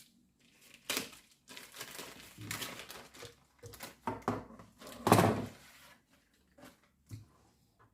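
Plastic packaging crinkling and rustling in irregular bursts, with a few knocks, as packs of meat and fish are handled; the loudest burst comes about five seconds in.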